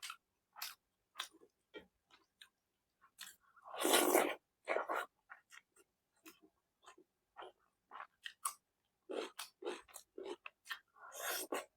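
Close-miked chewing of food: a steady run of short wet mouth clicks and smacks, with two longer, louder bites or slurps about four seconds in and again near the end.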